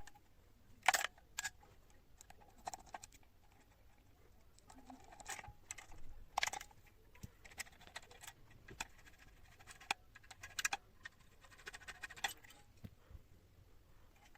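Hands working on an old clothes iron: irregular clicks, taps and short scrapes of small hard parts being handled, with a sharp click a little under a second in.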